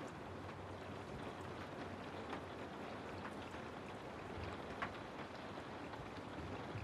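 Steady rain falling through trees, an even hiss with scattered louder drop ticks, one sharper drop just before the five-second mark.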